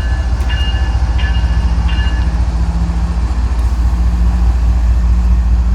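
CPKC freight train rolling past with a steady heavy rumble, with a few brief high-pitched tones in the first two seconds.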